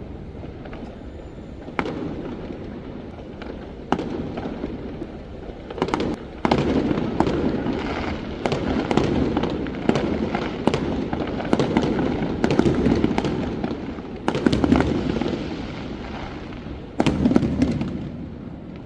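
Fireworks going off. Single sharp bangs come every couple of seconds at first, then a dense run of overlapping bangs from about six seconds in until about fifteen, and another loud cluster near the end.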